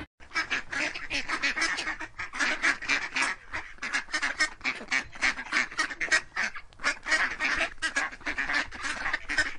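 Mallard quacking in a rapid run of short calls, about four a second.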